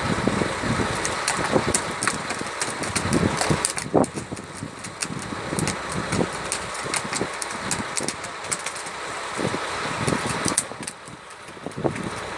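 A fishing boat's engine running steadily, with many irregular clicks and knocks over it.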